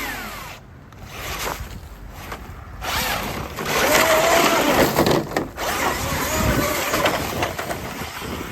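Electric motor of a Traxxas RC truck whining up and down in pitch as it is driven hard over rough terrain, with the noise of tyres and chassis. Loudest about halfway through.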